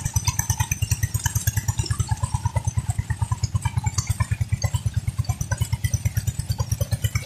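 Petter diesel engine driving a tube well pump, running steadily with a rapid, even exhaust beat.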